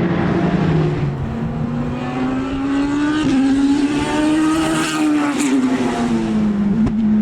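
Racing car engine at high revs passing by on track, its pitch climbing as it approaches and dropping after it goes past about five seconds in.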